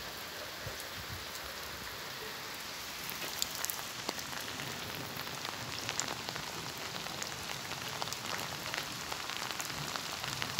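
Steady rain falling, an even hiss with single drops ticking sharply through it, the ticks growing more frequent from about three seconds in.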